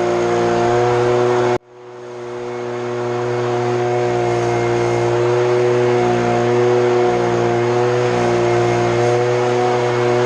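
Small petrol engine running steadily at constant speed. About a second and a half in, the sound cuts out abruptly and then swells back up to the same steady drone.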